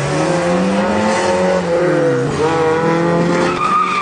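A car engine running with its pitch falling and rising as the revs change. A high, wavering squeal comes in near the end.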